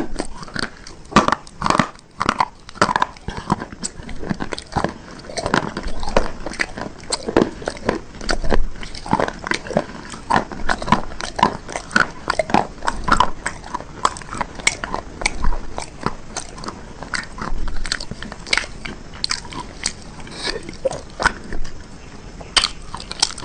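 A person biting and chewing hard, brittle bars up close to the microphone: a steady run of sharp crunches, several a second.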